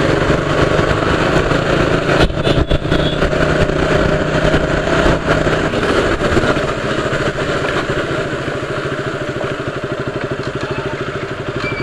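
Motorcycle engine running while the bike is ridden, with wind rushing over the microphone. After about six seconds the engine settles into an even, regular beat, a little quieter.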